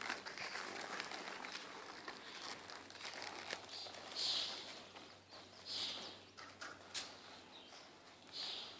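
Faint chirps from small birds: a few short calls several seconds apart, with a couple of soft clicks over quiet background.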